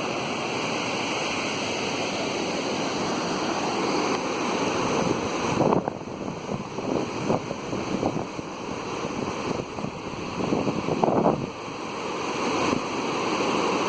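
Waterfall cascades rushing steadily, with louder gusts of wind buffeting the microphone about six seconds in and again near eleven seconds.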